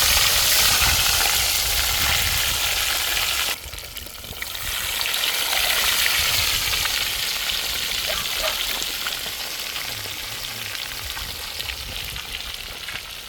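Tilapia frying in hot oil, a loud, dense sizzle just after a fish goes into the pan. The sizzle drops abruptly about three and a half seconds in, swells back, then slowly fades.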